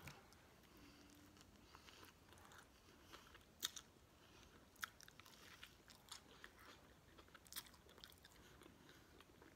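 Faint close-up chewing and biting of a sub sandwich, with a few sharp wet mouth clicks, the loudest about three and a half, five and seven and a half seconds in.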